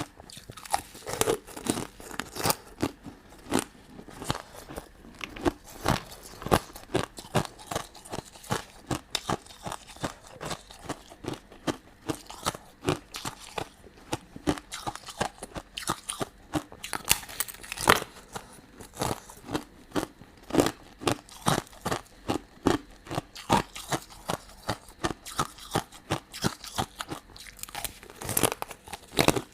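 Close-miked eating: a person crunching and chewing sugary sweets, a dense, irregular run of crisp cracks and clicks.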